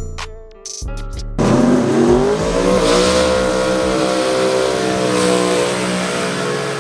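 Music ends about a second and a half in, cut off by a drag car launching hard: its engine at full throttle, the pitch climbing over the first second or two and then holding high as it runs down the strip.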